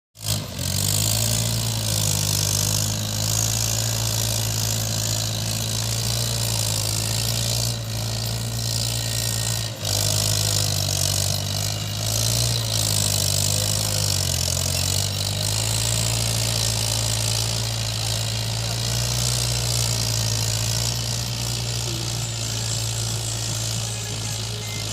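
Mahindra 475 tractor's diesel engine running steadily, pulling a cultivator, its pitch wavering slightly with a constant hiss over the top.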